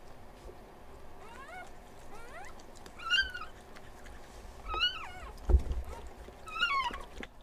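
Newborn puppies crying in short, high, rising-and-falling squeals, faint at first and then three louder cries. A low thump comes about halfway through.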